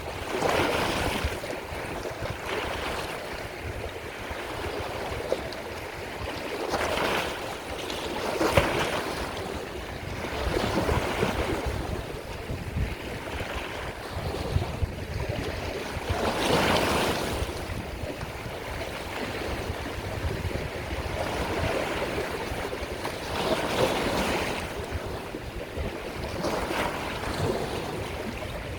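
Sea waves breaking and washing in, one surge swelling and fading every few seconds over a steady low rumble.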